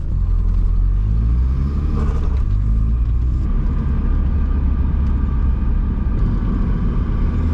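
VW 1.8T turbocharged four-cylinder engine pulling under throttle, a steady low drone. It is making only about 5 psi of boost, which the owner puts down to the blow-off valve bleeding off boost or a bad N75 valve.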